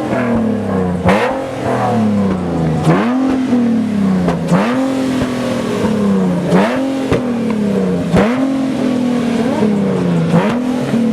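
Car engine revved over and over, about six blips, each rising quickly and falling back slowly, every one and a half to two seconds.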